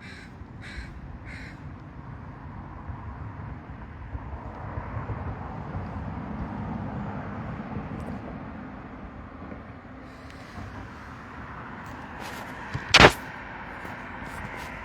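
A gull giving a quick series of short, harsh calls, three of them in the first second and a half. A rushing noise swells in the middle, then comes a single sharp knock about thirteen seconds in, the loudest sound.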